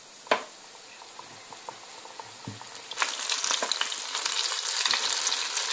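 Cornflour-coated chicken wings deep-frying in hot oil in a pan: a faint steady sizzle with one sharp tap under a second in. About three seconds in, the sizzling jumps to a loud crackle as another coated wing goes into the oil.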